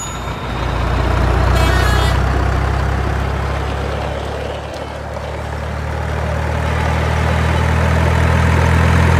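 Heavy truck engine sound running steadily. It grows louder in the first second, eases off about four to five seconds in, and builds again toward the end. A brief high-pitched sound comes about one and a half seconds in.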